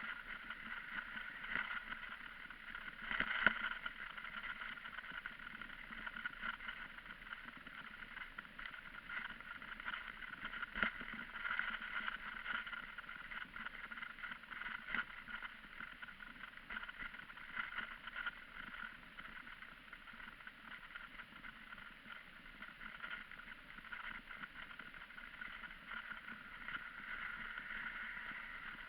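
Steady rushing noise of a bicycle in motion, tyres on the road and air going past, with occasional knocks and rattles from bumps.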